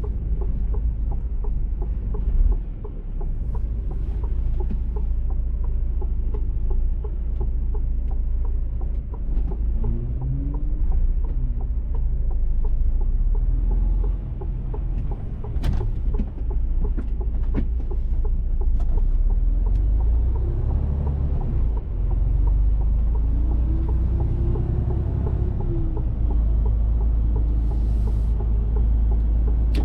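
Mercedes-Benz Actros truck's diesel engine running under way with a steady low rumble of road noise; the engine note rises and falls twice, about a third of the way in and again past the middle, as the truck slows and pulls away.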